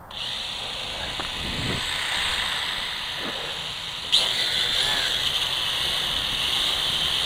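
Parrot Bebop quadcopter's electric motors starting up and running with a steady high whine, stepping up louder about four seconds in. The drone has come down and is being restarted on the ground, and the owner is pretty sure its motors are weak.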